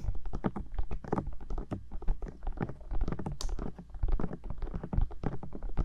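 Bare fingertips tapping on the silicone ears of a 3Dio binaural microphone: rapid, irregular taps heard as muffled thumps with a deep boom.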